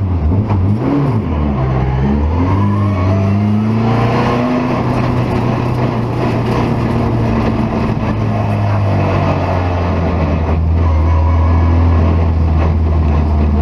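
BMW E30 M3's four-cylinder engine revving up and down through several gear changes for the first few seconds, then running at a steady engine speed.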